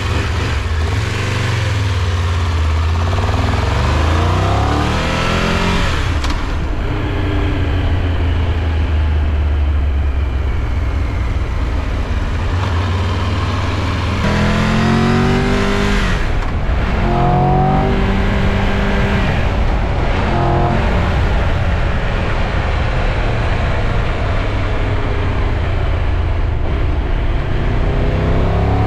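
Triumph Tiger 1200 Rally Pro's inline three-cylinder engine pulling under acceleration, its pitch climbing and dropping back several times as it works up through the gears, over a steady rushing noise.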